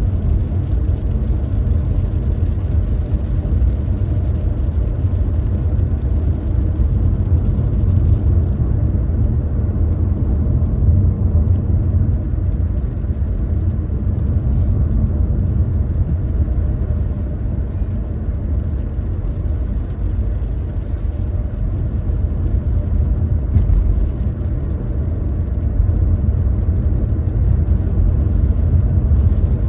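Car driving along, a steady low rumble of engine and road noise. A faint hiss over it fades about eight seconds in.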